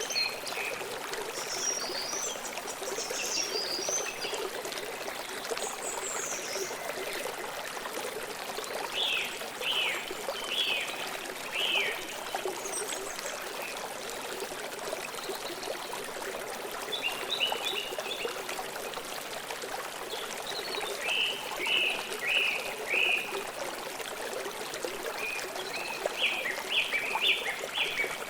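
Steady rush of flowing river water. Songbirds call over it in short phrases of quick repeated chirps, several times through the stretch, and these chirps are the loudest sounds.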